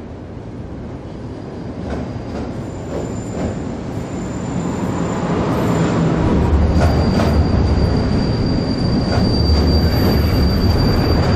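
Polish EN57 electric multiple unit running along a station platform: a steady rumble with high-pitched wheel squeal and scattered rail clicks. It grows louder from about a third of the way in and is loudest in the second half.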